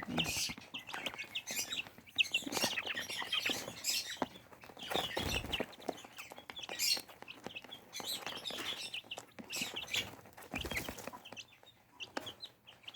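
A group of young chicks (Buff Brahma, Wyandotte, Silkie and Serama) cheeping in short high chirps, with scattered taps and rustles among them.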